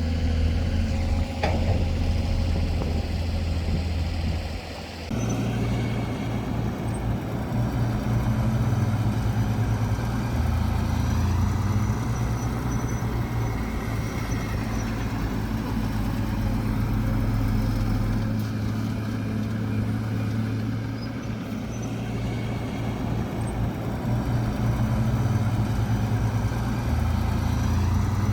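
Heavy diesel earthmoving machinery running steadily, a low engine hum whose note changes abruptly about five seconds in.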